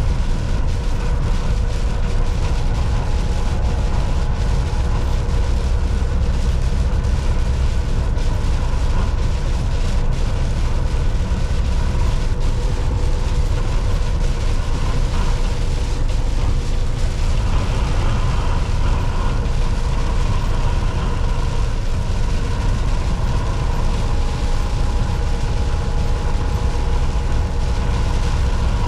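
Volvo VNL 760 semi truck cruising at highway speed: a steady low engine and road rumble with a faint steady hum above it, unbroken throughout.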